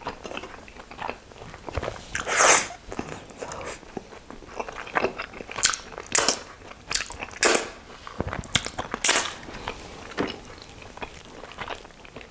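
Close-miked chewing of a mouthful of chicken momo, with several sharp wet smacks as sauce is licked off the fingers.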